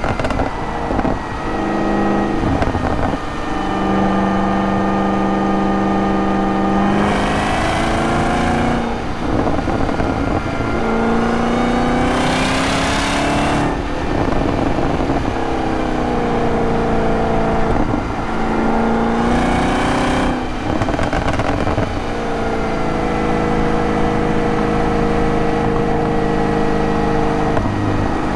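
The 2023 Camaro ZL1's supercharged 6.2-litre V8 is driven on the road, its note rising and falling with throttle and engine speed. It holds steady for a few seconds at a time and is broken by several short noisy stretches.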